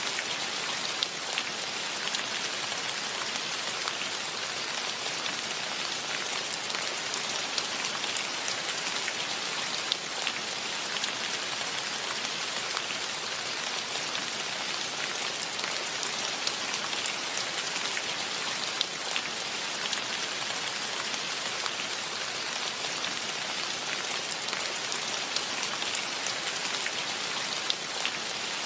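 Steady rain falling, a constant hiss of drops with many small individual drop ticks. No birdsong or wind stands out.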